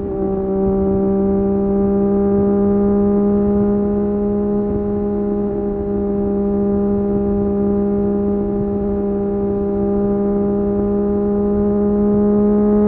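Triumph Street Triple 765 RS's inline three-cylinder engine running through an Akrapovic exhaust while riding, holding steady revs on one even note. The pitch and loudness climb slightly near the end.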